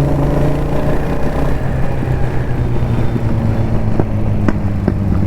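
Kawasaki Z900's inline-four engine pulling on the road, its pitch rising a little and then holding steady. About four seconds in come three sharp exhaust pops, the crackle the rider calls 'patakhe'.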